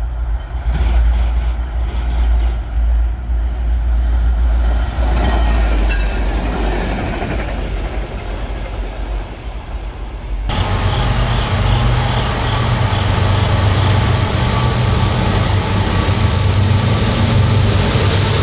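A train passing close by on the tracks, its cars rolling with a steady heavy rumble. About ten seconds in the sound changes abruptly to a denser rolling noise with a repeating light clicking from the wheels.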